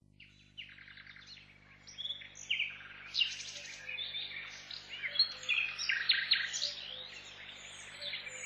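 Several birds chirping and singing at once, many short overlapping calls and trills, over a faint steady low hum.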